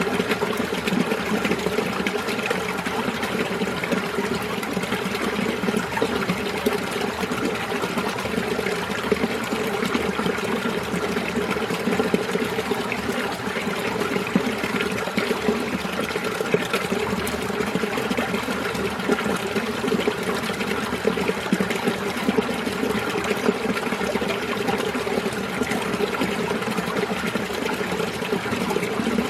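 Winter mountain stream running over rocks: a steady babbling and trickling of flowing water.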